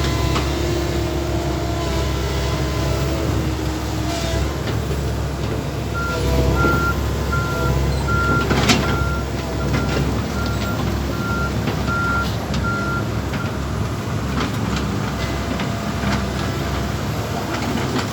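Backhoe engine running steadily, with its warning alarm beeping regularly, about one and a half beeps a second, for several seconds in the middle; a single sharp knock about nine seconds in.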